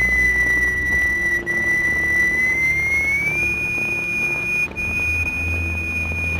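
A steady, high, pure electronic tone driving a vibrating plate to form sand figures. It glides up a little in pitch about three seconds in and then holds, over a low hum.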